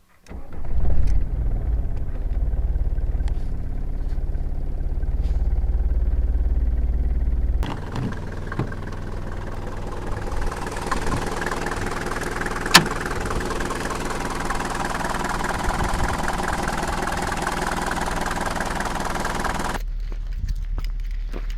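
Old Mercedes-Benz diesel engines in deep cold: one bursts into life just after the start and runs with a heavy low rumble, then the sound changes abruptly twice to other diesels running at idle, with one sharp click near the middle.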